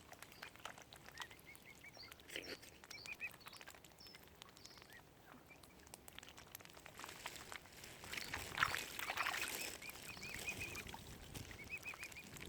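Mute swan cygnets peeping: short runs of small high-pitched peeps repeated throughout. About eight seconds in there is a louder stretch of water splashing and sloshing.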